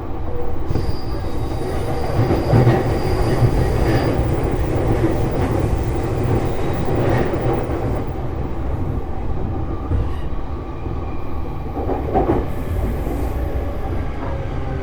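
Running sound inside a JR East E233-series electric train in motion: a steady rumble of wheels on rail, with a thin high squeal from about one second in to about four seconds and a few faint knocks from the track.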